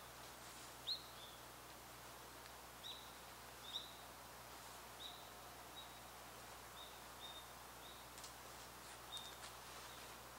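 A small bird calling with short, high chirps, about one every second, over faint woodland hiss; a few faint rustles near the end.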